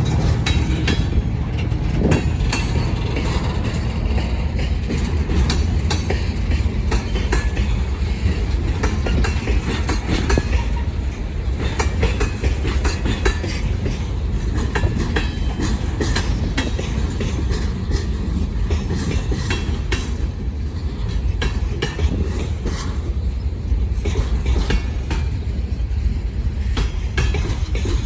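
Freight cars of a manifest train rolling past, with a steady rumble and a continual irregular clatter of wheels clicking over rail joints.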